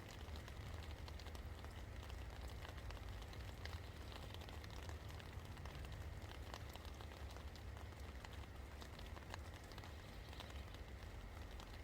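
Steady rain falling, with many scattered drops tapping on a surface, over a steady low rumble.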